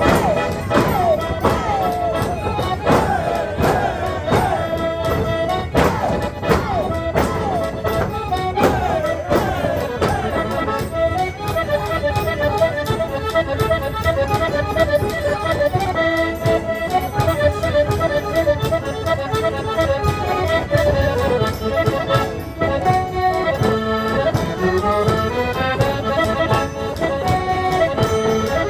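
Portuguese rancho folk dance music: accordion leading a lively tune over a steady percussion beat.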